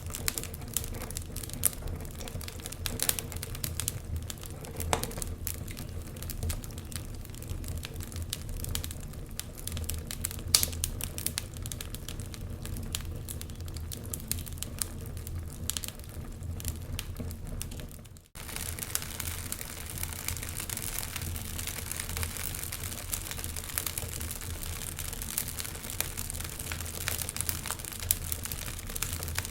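Wood fire crackling, with irregular sharp pops and snaps over a low steady rush of burning. The sound cuts out for a moment about two-thirds of the way through and comes back as a denser hiss with fewer loud pops.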